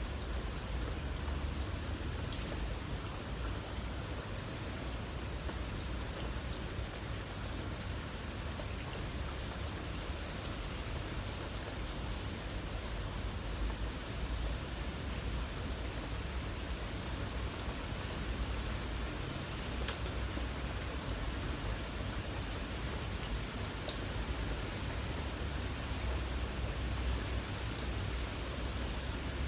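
Light rain falling with an occasional faint drip tick, under a steady high-pitched chirring of insects and a constant low rumble.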